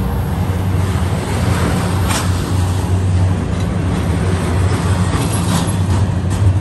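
Double-stack intermodal train's container well cars rolling past, a steady heavy rumble of steel wheels on rail, with two brief hissing swells about two and five and a half seconds in.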